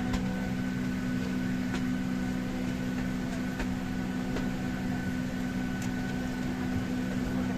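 Steady drone inside an airliner cabin: jet engine and cabin air-system hum, holding a few constant low tones.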